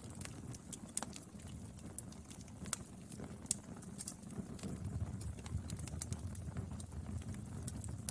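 Wood fire burning: a steady low rumble of flames with frequent irregular crackles and sharp pops from the burning wood, the loudest pops about a second, two and a half seconds and three and a half seconds in.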